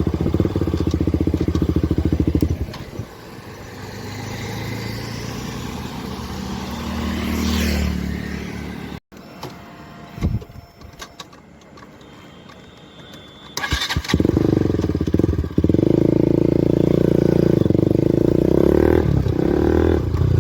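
KTM RC 200's single-cylinder engine through a loud Akrapovic exhaust with the dB killer removed. It runs loud at first, drops to a fainter running sound with a short rise in pitch, goes quiet after a sudden cut about nine seconds in, and comes back loud and steady from about fourteen seconds in.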